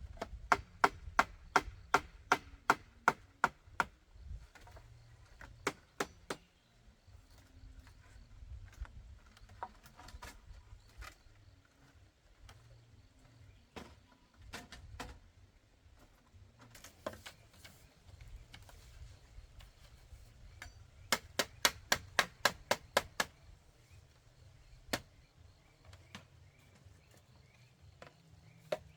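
Bamboo being chopped with a blade: a quick run of sharp chopping strikes, about four a second, then scattered single strikes and a second quick run near the end.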